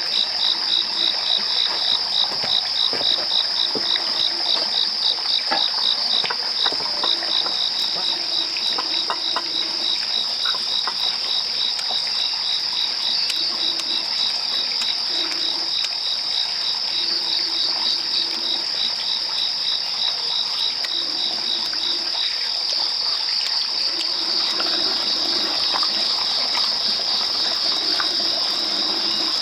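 Forest insects, crickets or cicadas, in a steady high chorus, one of them pulsing rapidly without a break, with short low frog calls coming and going.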